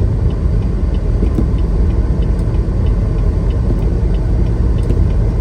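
Semi truck cab interior while driving: a steady low engine and road rumble, with faint regular ticking over it.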